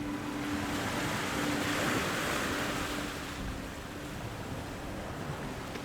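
Small waves washing onto a beach, the wash swelling about two seconds in and then easing off.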